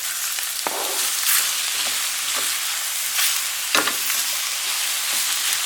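Sliced chicken breast and vegetables sizzling steadily in hot olive oil in a frying pan, with a few sharp knocks and scrapes of a utensil against the pan as the food is stirred.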